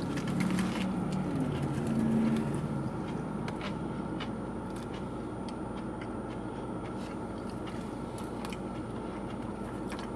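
A person biting into a fried chicken sandwich and chewing it, with scattered small crunchy clicks, over a steady car-cabin hum.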